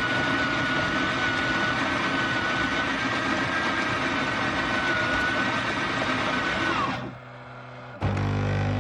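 A power tool running with a steady high whine, winding down about seven seconds in. A second later a lower, steady hum with a strong low pitch starts.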